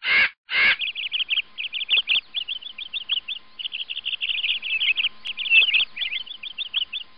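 Birds chirping in a rapid, unbroken chatter of short high notes, some sliding down. Two short bursts of noise come before it in the first second.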